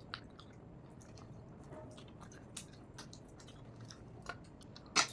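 A person chewing a mouthful of rice and chicken curry close to the microphone, with scattered wet clicks and smacks of the mouth. The loudest smack comes near the end.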